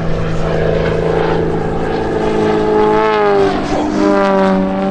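Piston engine and propeller of a 300-horsepower aerobatic aircraft running at display power. The pitch dips and then climbs again about three to four seconds in as the aircraft manoeuvres.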